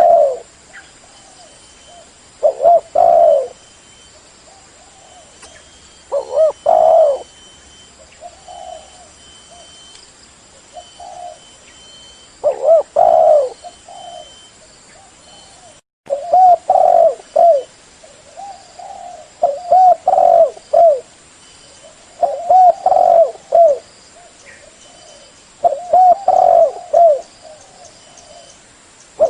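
Spotted dove (terkukur) cooing loudly: short phrases of rolling coos repeated every few seconds, coming more often in the second half.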